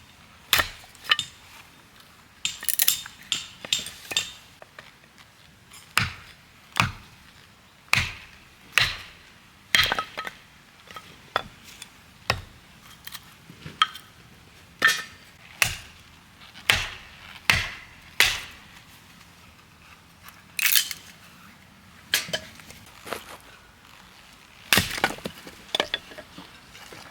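Wood breaking: a series of sharp cracks and knocks at irregular spacing, roughly one a second, some with a short ringing click.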